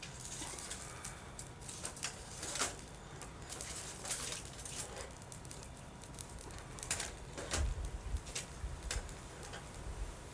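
Wood campfire burning, crackling with scattered sharp pops over a soft hiss, with a low rumble about three quarters of the way through.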